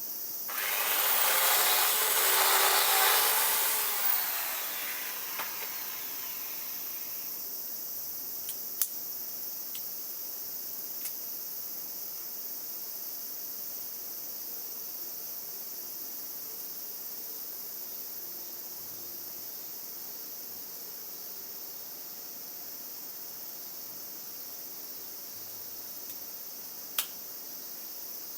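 Steady high insect chirring, with a loud stretch of unidentified noise lasting about six seconds near the start and two sharp clicks later on.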